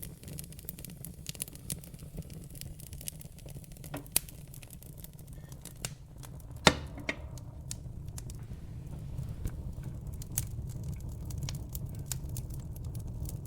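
Wood logs burning in a fireplace: a low steady rumble with scattered crackles and snaps. There is a sharp pop a little after halfway through and a smaller one about four seconds in.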